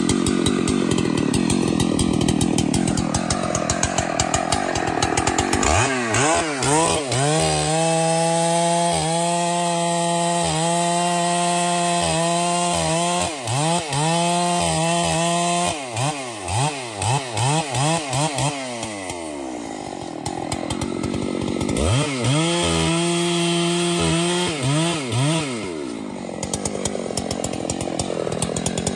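Chainsaw cutting into wood, then running free at high revs with many quick throttle dips for about ten seconds before winding down. It cuts again, gives a second short run of throttle blips, and goes back to cutting near the end.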